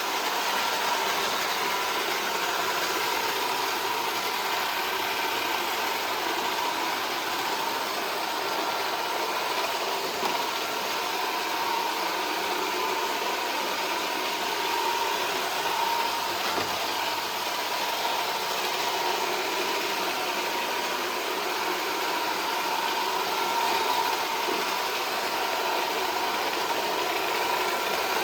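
iRobot Roomba 440 robot vacuum running: a steady motor whir with a thin, even whining tone.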